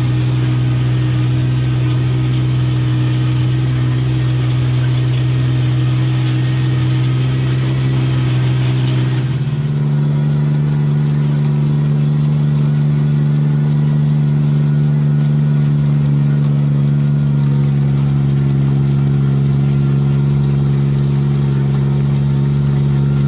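Engine of a Kubota rice transplanter running at a steady speed, its pitch stepping up a little about nine seconds in and then holding steady.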